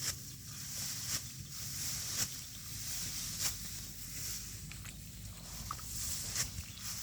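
Rice being harvested by hand: a crisp stroke comes about once a second as stalks are cut or handled, over a steady high hiss.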